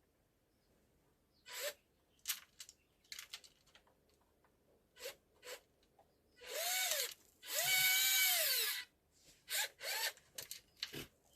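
Small electric motor of a WPL RC tractor unit whining in short bursts of throttle, each rising then falling in pitch as it spins up and slows. In the middle come two longer runs of about a second each, and there is a sharp click near the end.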